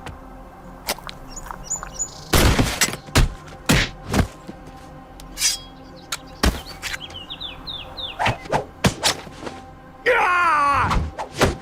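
A fight scene's run of sharp hits and thuds over music, with a few short chirps between them and a loud wavering yell near the end.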